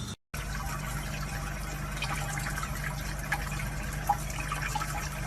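Water running or trickling, with small drips over a steady low hum.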